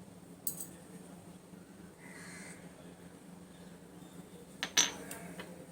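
Small metal clinks and taps as metal oil lamps are handled while dots of kumkum are dabbed on them. There is a short click about half a second in and a sharper double clink about three-quarters of the way through, over a low steady hum.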